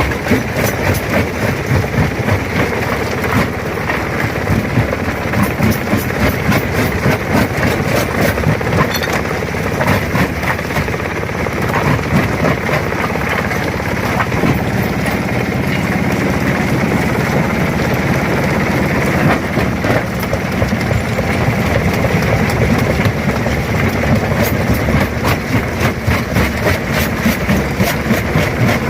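Rock crusher running and crushing stone: a steady heavy machine noise packed with irregular cracks and clatter of rock breaking.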